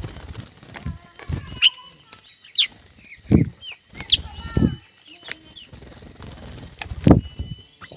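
Birds calling with short, sharp chirps and whistles, over several dull low thumps.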